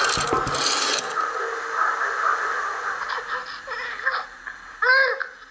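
A rotary telephone dial is turned and let go, giving a short rattle of clicks in the first second. A hiss fades out over the next couple of seconds, then a recording of a baby laughing and cooing begins, played back by the telephone installation.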